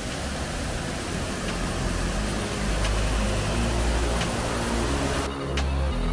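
Steady rushing noise with a low background-music bassline coming in underneath. About five seconds in, the rushing cuts off abruptly, leaving only the music.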